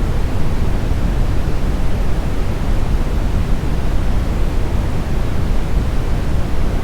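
Steady, smoothed brown noise: an even, deep rushing hiss with most of its weight in the low end, unchanging throughout.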